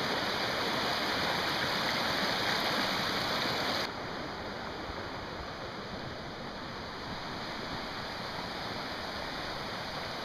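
Steady rush of a fast mountain creek's water. About four seconds in the sound drops abruptly to a quieter, duller rush.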